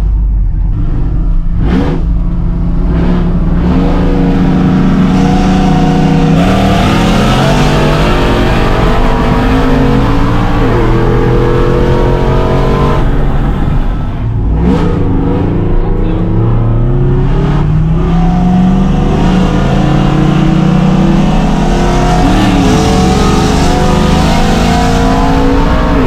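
Cammed LS V8 pickup truck engines at hard acceleration from a dig. The engine pitch climbs, drops at each upshift and climbs again, over several pulls.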